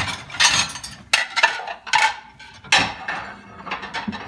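Dishes and cutlery clattering and clinking as they are pulled from a dishwasher rack, several sharp knocks in quick succession over the first three seconds.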